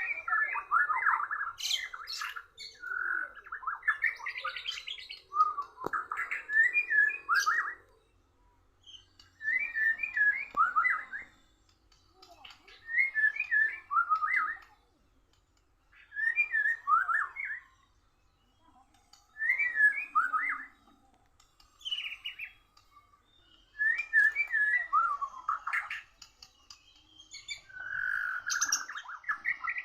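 Murai batu (white-rumped shama) singing: a continuous run of song for the first eight seconds, then short phrases of quick notes about a second and a half long, repeated roughly every three seconds.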